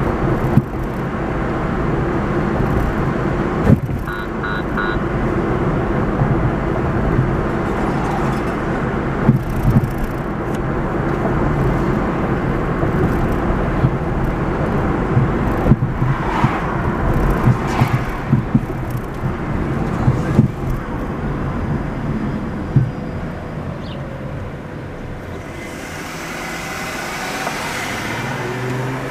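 Car driving along: steady engine and road noise, with occasional sharp knocks and a brief run of short high tones about four seconds in.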